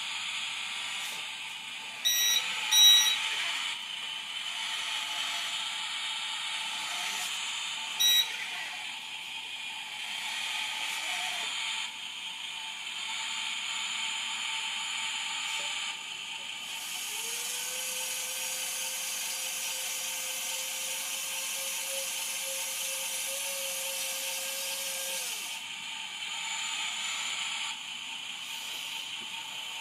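RC4WD 1/14-scale RC forklift working, its small electric motors whining under a steady electronic sound-module noise. A few short beeps come about two to three seconds in and again around eight seconds, and a long steady tone holds for about eight seconds past the middle.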